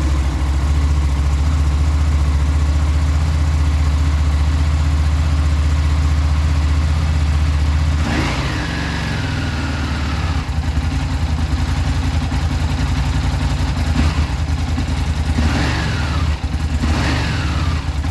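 A 2009 Buell 1125CR's 1125 cc V-twin idles on a cold start, running at a raised idle at first and settling lower about eight seconds in. Several short whines falling in pitch sound over the idle in the second half.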